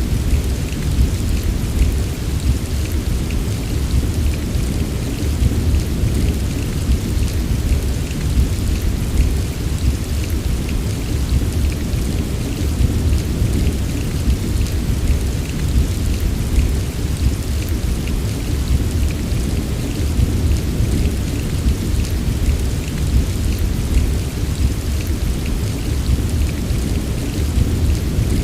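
Steady heavy rain, the fine patter of drops over a deep continuous rumble underneath, unchanging throughout.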